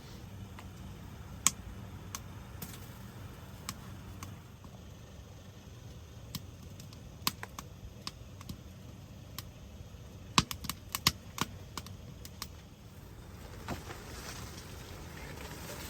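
Irregular sharp clicks and snaps, a quick cluster of them about two thirds of the way in, over a steady low rumble.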